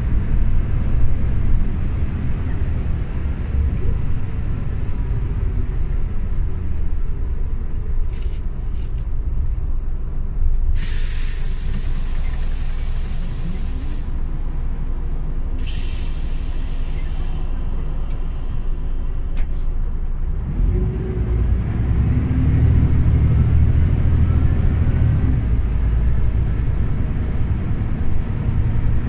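Scania OmniLink CL94UB city bus's diesel engine running low and steady, with two bursts of compressed-air hiss from its air system about a third of the way in. Then the engine picks up and grows louder as the bus pulls away.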